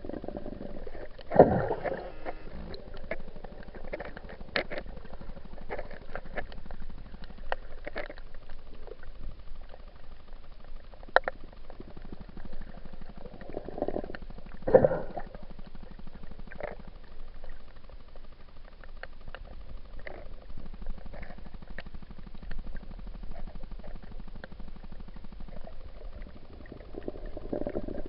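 Muffled underwater sound picked up through an action camera's waterproof housing: a low steady rumble with many faint scattered clicks, and two louder rushes of water, one about a second in and one near the middle.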